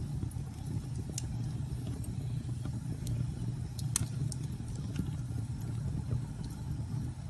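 Wood fire crackling in a fireplace, with scattered sharp pops, the loudest about four seconds in, over a steady low rumble of storm wind.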